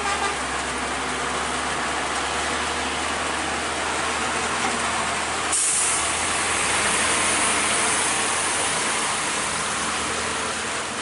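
Truck engine running steadily. About halfway through, a loud hiss starts suddenly and carries on, slowly easing.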